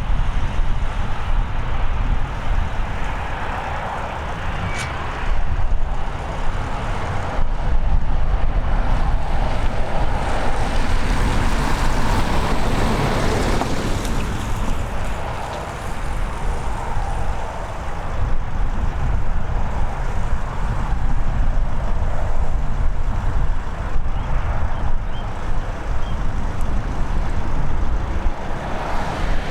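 Boeing 737-800's CFM56-7B jet engines, a loud continuous roar with a heavy low rumble.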